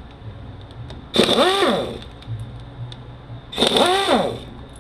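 Power tool whirring in two short spurts, its pitch rising and then falling each time as it spins up and lets off. It is backing out T30 Torx bolts on a Mercedes 722.9 automatic transmission.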